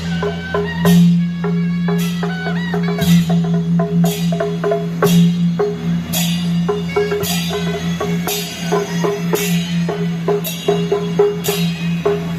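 Traditional temple procession percussion music: sharp wood-block-like clicks and drum strokes, with crashes about once a second, over a steady held low tone.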